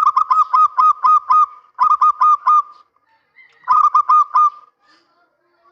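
Male zebra dove (perkutut) cooing: three quick runs of short staccato coos, the first of about seven notes, then two shorter runs of four or five.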